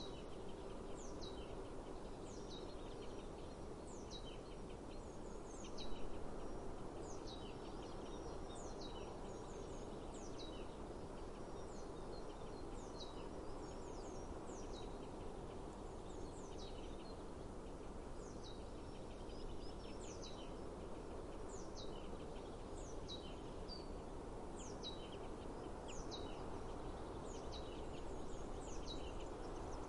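A small bird repeating a short, high, down-slurred call about once a second, over steady low outdoor background noise; a brief louder noise comes about six seconds in.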